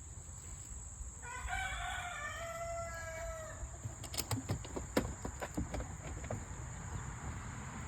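A rooster crows once, a single long call starting about a second in and held for about two seconds. It is followed by a run of scattered sharp clicks and scuffs, with a faint steady high whine underneath.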